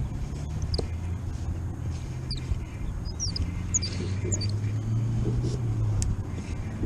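Small birds chirping in short, high, falling notes again and again, over a steady low hum that fades near the end, with a few faint clicks.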